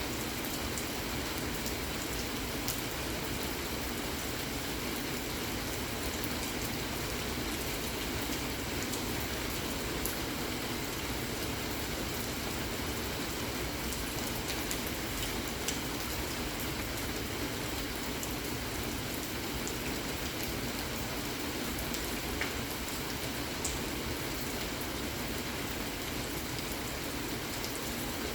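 Steady rain falling: an even hiss at a constant level, with a few scattered sharp ticks of single drops.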